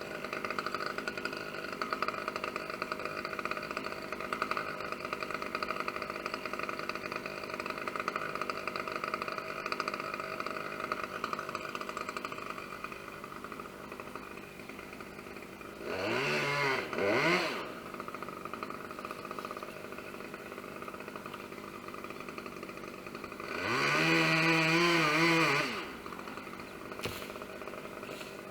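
Two-stroke chainsaw idling steadily, with a quick double blip of the throttle about halfway through and a longer rev of about two seconds later on.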